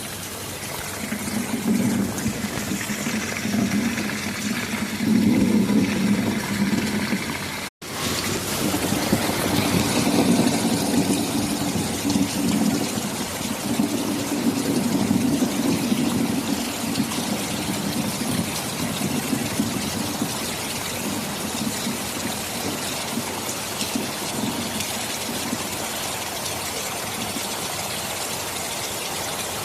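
Steady heavy rain with a low thunder rumble that swells and fades several times. The sound cuts out for an instant about eight seconds in.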